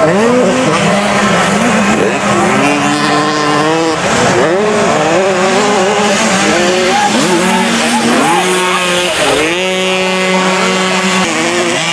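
Several 50cc two-stroke motocross bikes revving hard together. Their pitch repeatedly climbs and drops back as the throttles open and close, with one engine held steadier underneath.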